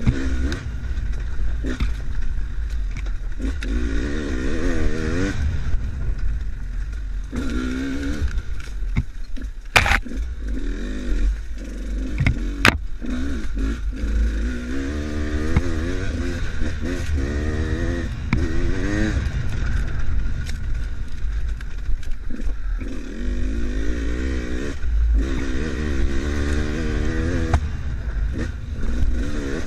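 Enduro motorcycle engine being ridden, its pitch rising and falling again and again as the throttle is worked, over a steady low rumble. Occasional sharp knocks and clatter, the loudest about ten seconds in and again near the middle.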